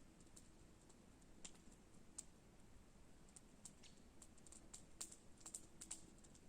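Wood campfire crackling faintly, with scattered sharp pops and ticks at irregular intervals.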